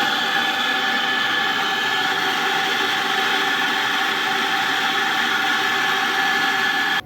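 Espresso machine running: a loud, steady rushing noise with several steady whistling tones, starting and stopping abruptly.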